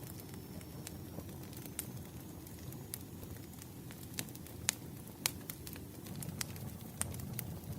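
Campfire burning: a low steady rumble of flames with irregular sharp pops and crackles of the wood, two louder pops a little past halfway.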